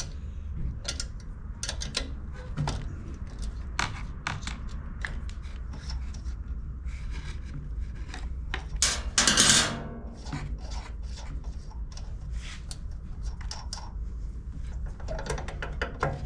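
Hand tools clicking, knocking and scraping on the metal of a small generator while working at a stuck stud, over a steady low hum, with one loud rushing burst lasting about a second, roughly nine seconds in.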